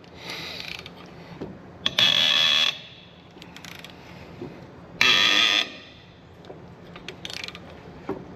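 Long-handled hand ratchet clicking as its handle is swung back, in three short strokes: a faint one about half a second in, then louder ones at about two and five seconds. It is turning a seized bolt out only a fraction of a turn per stroke.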